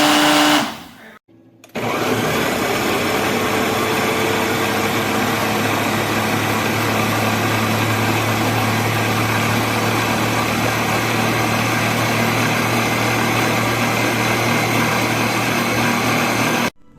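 Electric countertop blender motor running: it stops briefly about a second in, starts again and runs steadily at one speed for about fifteen seconds, then cuts off suddenly near the end.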